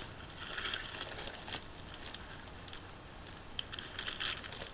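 Two spells of light rustling and handling noise: short crackly scrapes, the first in the opening second and a half, the second near the end.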